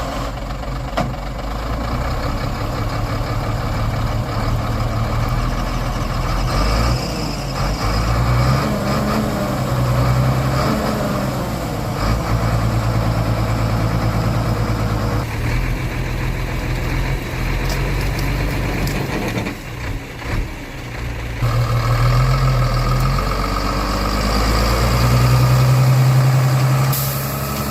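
Heavy truck engine running under load, revving up and down as the truck strains to climb out of deep mud, with a winch cable rigged to help it. It is loudest near the end.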